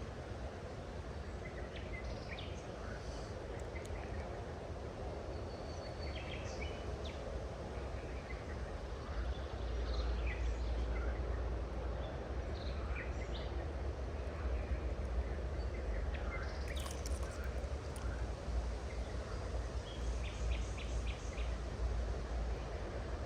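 Birds chirping briefly here and there over a steady outdoor hiss and low rumble; the rumble grows stronger about ten seconds in.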